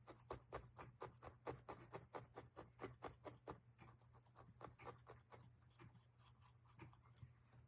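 Felting needle repeatedly stabbing wool roving into a foam block, quick faint scratchy pokes about five a second, growing fainter about halfway through.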